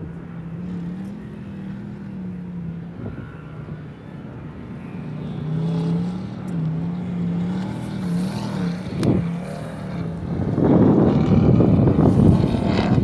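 A distant engine running with its pitch wavering up and down. About ten seconds in, loud wind gusts on the microphone take over.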